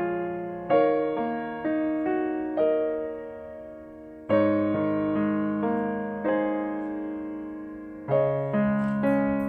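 Slow background piano music: single notes and chords struck about once a second, each fading away before the next.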